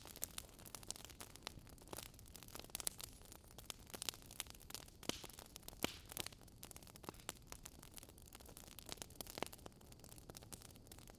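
Wood fire in a fire pit crackling: a soft hiss of burning broken by frequent, irregular sharp snaps and pops, a few louder pops among them.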